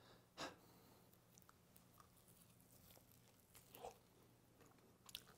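Faint eating sounds of a person biting into and chewing a rice ball coated in crumbled seaweed, with a soft-boiled egg inside. A sharp bite or crunch comes about half a second in, then soft chewing with a few small mouth clicks.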